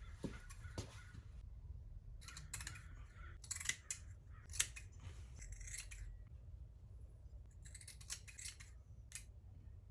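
Scissors cutting fiberglass cloth, in irregular runs of short crisp snips with pauses between them.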